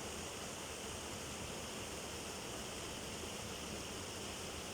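Hot-spring-fed river flowing: a steady, even rush of water.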